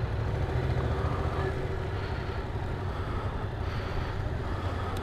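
Yamaha Tracer 700's parallel-twin engine running steadily at low revs as the motorcycle rolls along slowly.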